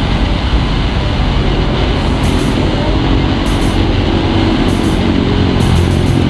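Wind and road rumble on the microphone of a camera carried by a cyclist riding along: a steady, loud low rumbling noise, with brief high hissing bursts a few times.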